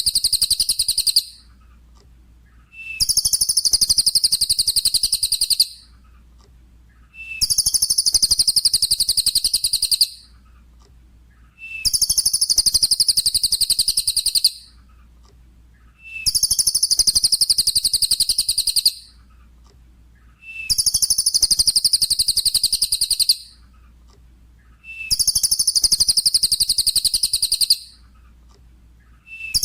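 Cililin song: a short lead-in note, then a fast, high trill lasting about two and a half seconds, repeated in the same form about every four seconds, as in a looped tutoring recording for songbirds.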